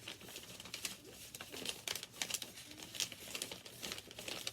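Sheets of paper rustling and crinkling as they are folded and creased by hand, in irregular crisp strokes several times a second.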